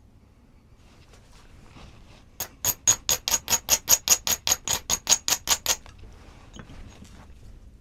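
A rapid run of about twenty sharp, evenly spaced clicks, roughly six a second, lasting about three seconds.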